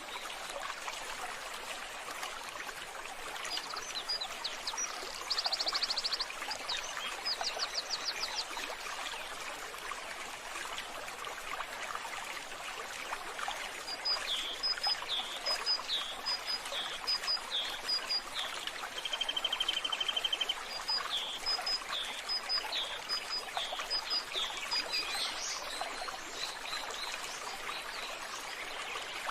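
Steady rush of running water, with small birds calling over it: a couple of fast, high trills a few seconds in, then a long string of short repeated chirps and a brief buzzy trill in the middle.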